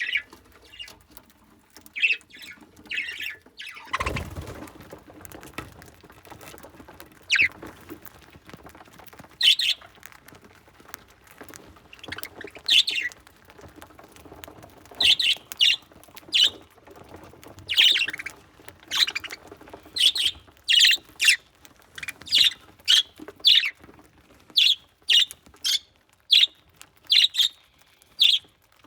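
Budgerigars chirping: short, sharp squawky calls, a few at first and then coming quickly one after another in the second half.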